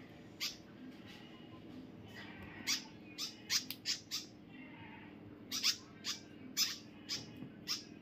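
Small bird giving short, sharp, high chirps, about a dozen at irregular intervals, some in quick pairs.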